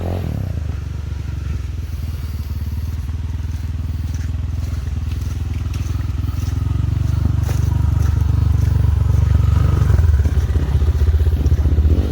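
Dirt bike's single-cylinder engine running at low revs, slowly growing louder, with a few scattered clicks over it.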